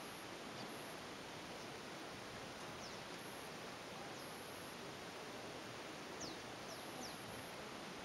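Small birds giving short, high, falling chirps now and then: a couple about three seconds in and a little cluster near the end. They sound over a steady hiss.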